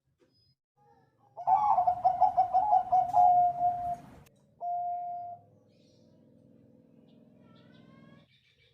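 Zebra dove (Bangkok-bred perkutut) singing: about a second and a half in, a loud fast run of warbling coos that settles into a held note, then one shorter held coo a moment later.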